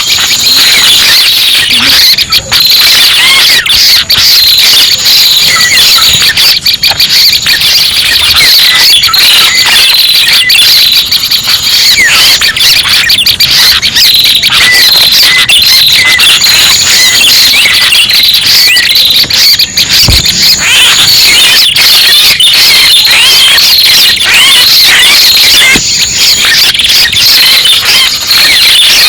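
Loud, unbroken stream of rapid high chirps and twittering from a recorded prenjak pala merah (a small songbird), played as a bird-trapping lure call. There is a brief low thump about twenty seconds in.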